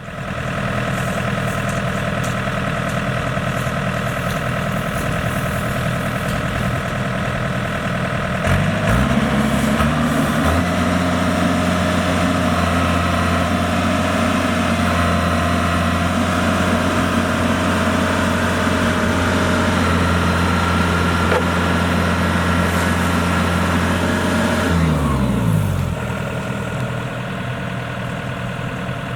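Diesel farm engine running steadily, then revving up about a third of the way in and held at high revs for about fifteen seconds under load, before dropping back to a lower idle near the end.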